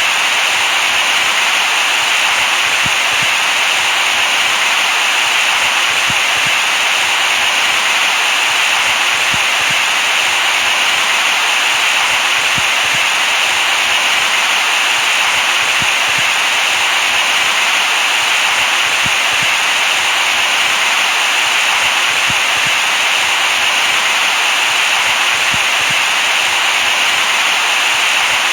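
Steady white noise, an even hiss that is brightest in the upper mid range and does not change.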